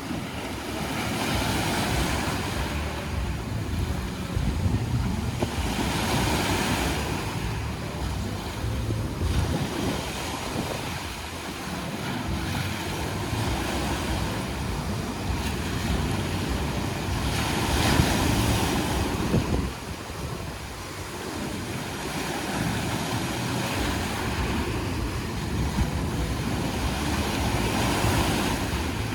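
Sea waves washing onto the shore, the surf swelling every few seconds, with wind rumbling on the microphone.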